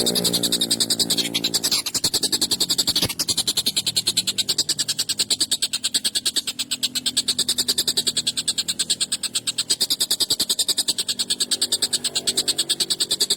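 Tengkek buto (Javan kingfisher) calling in a loud, rapid rattle of many pulses a second that goes on without a break. A fuller-pitched note comes in at the start and again near the end.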